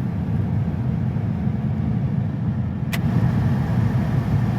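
Pickup truck engine running with a steady low rumble, heard from inside the cab; a single sharp click about three seconds in.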